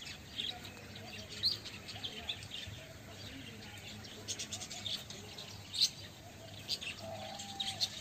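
Birds chirping: short, high chirps at irregular moments, a few louder ones about one and a half and six seconds in.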